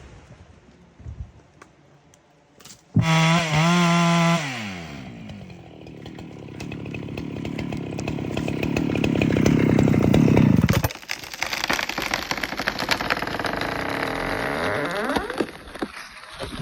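Two-stroke chainsaw coming in suddenly at high revs about three seconds in, the pitch falling as the throttle eases off. It then builds up in a long cut that stops abruptly, and it runs on lower, with the pitch falling again near the end.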